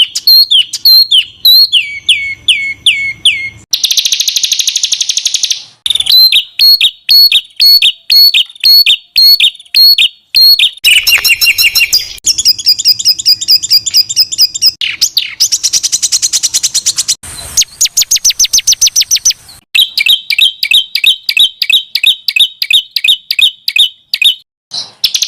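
Songbird song spliced from several clips of different small birds, cutting abruptly from one to the next every few seconds. Each clip is a fast, tightly packed run of sharp repeated notes, trills or buzzy rattles, the rough, dense 'tembakan' phrases used to tutor competition songbirds.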